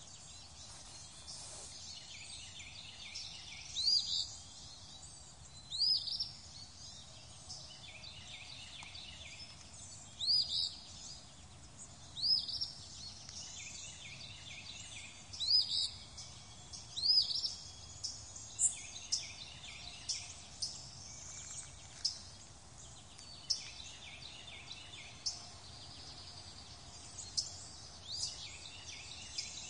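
Birdsong: a bird repeating a short, high call every couple of seconds, with fainter chirping from other birds over a soft outdoor hiss.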